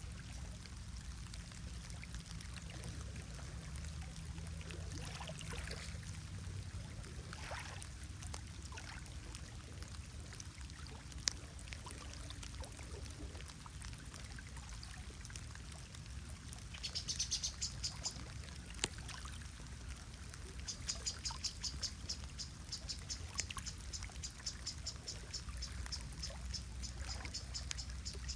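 Steady rain and water noise with birds calling. A few short descending calls come in the first third, then a rapid series of high chirps, about five a second, runs through the last seven seconds.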